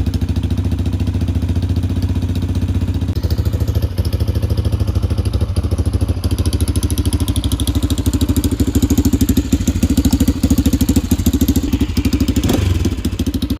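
Honda XR400's air-cooled single-cylinder four-stroke engine idling steadily with an even, rapid exhaust beat. The owner suspects it is running rich, since it stalls when the throttle is opened or the choke is turned off.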